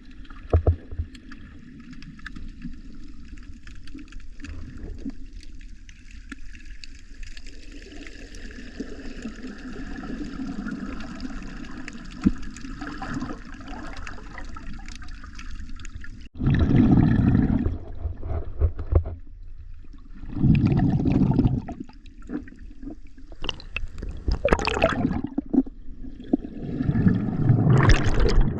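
Sea water sloshing and gurgling around the microphone, steady at first. From about halfway on, loud bursts of bubbling come every few seconds.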